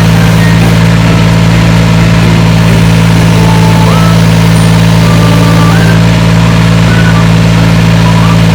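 Diesel engine idling loudly and steadily, holding an even speed throughout.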